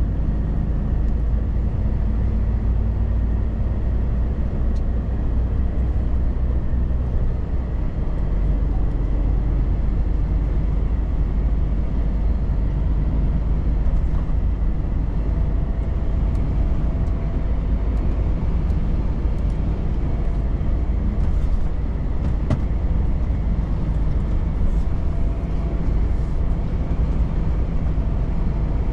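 Volvo FH truck's diesel engine and tyres on the road, a steady low drone while cruising. A faint higher whine comes in twice.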